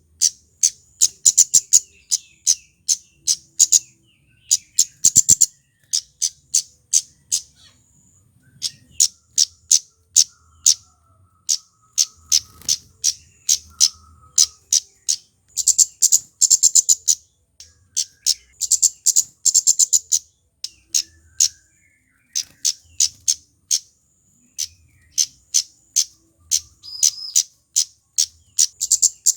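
Male flowerpecker (kemade) singing: rapid trains of sharp, high ticking notes, repeated in bursts with short gaps.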